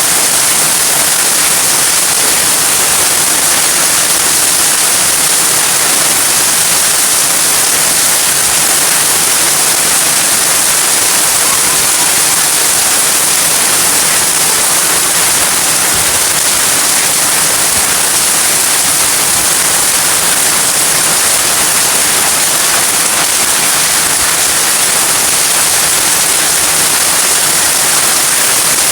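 Heavy rain falling: a loud, even hiss that holds steady throughout.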